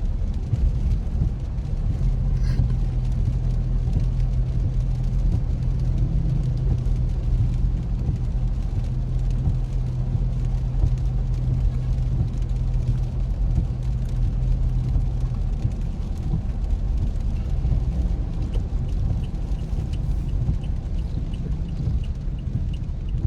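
Car running down the road, heard from inside the cabin: a steady low engine and road hum whose low tone drops away about 15 seconds in. Near the end a regular ticking starts, about two ticks a second.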